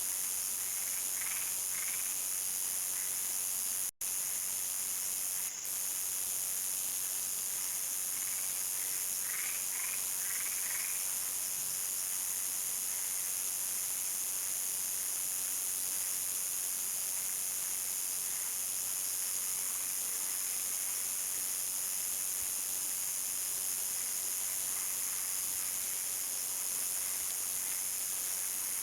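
Countryside nightfall chorus: crickets trill steadily at a high pitch. Frogs call in two short clusters of quick notes, near the start and about ten seconds in. The sound cuts out for an instant about four seconds in.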